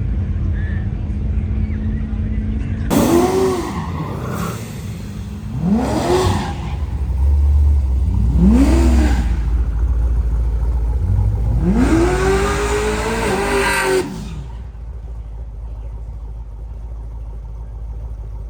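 Drag-racing car engine revving hard, its pitch climbing and falling four times over about eleven seconds, then cutting off suddenly. A steady low rumble of idling engines runs underneath.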